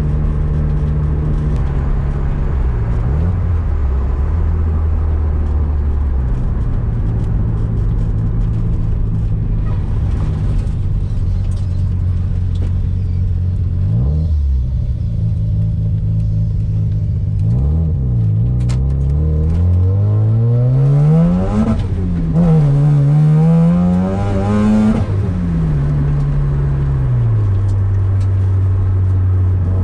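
Mazda RX-7 FC's turbocharged 13B twin-rotor engine heard from inside the cabin while driving. It holds a steady note, dips and climbs a few times, then climbs steeply twice past the middle before falling back to a steady cruise near the end.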